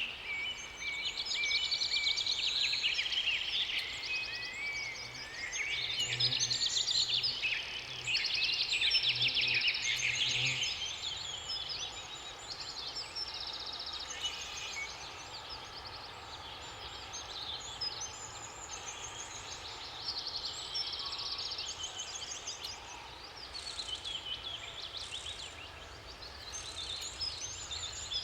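Several songbirds singing at once, a dense mix of trills, chirps and repeated phrases, busiest in the first half. A low pulsing drone runs underneath for a few seconds early on.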